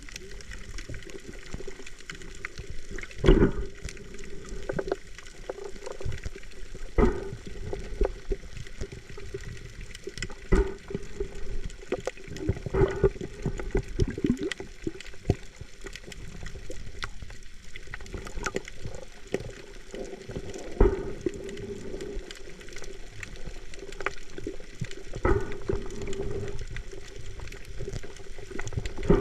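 Muffled water sound as heard by a camera underwater, with a steady low hum and scattered knocks and clicks.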